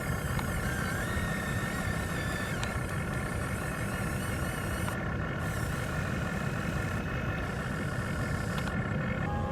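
Backhoe engine running steadily, with a low rumble and a steady whine over it. The whine changes abruptly about nine seconds in.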